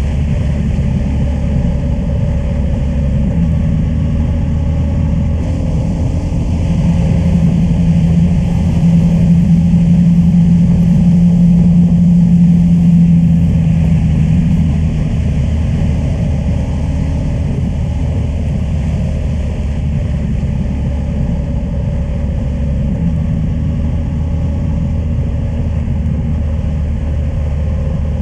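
Honda Transalp 600's V-twin engine running steadily while the motorcycle is ridden along the road. The engine note grows louder from about eight seconds in and eases back about six seconds later.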